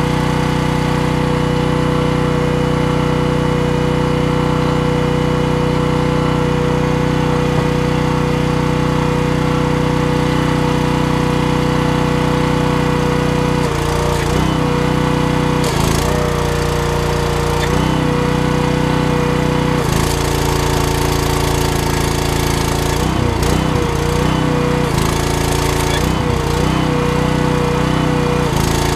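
An arc welding machine running with a steady hum; from about 14 s in, the electric arc crackles in spells while angle iron is welded, and the machine's hum dips in pitch each time the arc is struck.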